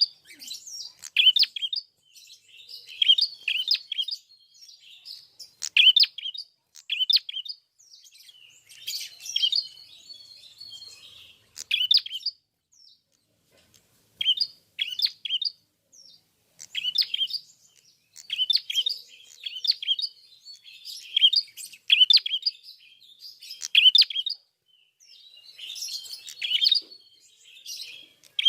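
A prenjak kepala merah (klawu) singing vigorously in short, rapid, chirping phrases, repeated about once a second with brief pauses between bursts.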